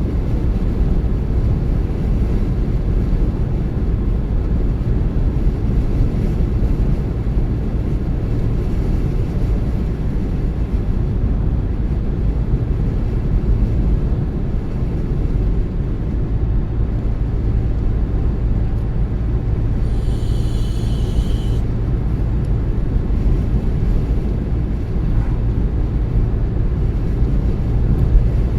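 Car driving along a road: a steady low rumble of engine and tyres. About two-thirds of the way in there is a brief high-pitched tone lasting a second or two.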